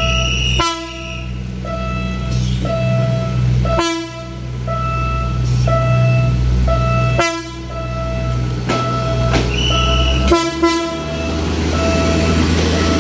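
Philippine National Railways diesel commuter train running up to a level crossing, its engine droning steadily and its horn giving short blasts about every three seconds, while the crossing warning signal beeps over and over. From about ten seconds in the train draws alongside and the rushing rumble of its wheels and running gear takes over.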